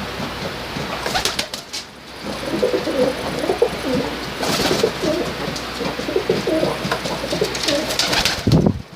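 Several domestic tippler pigeons cooing in a loft, with a couple of short rustling sounds in the first half.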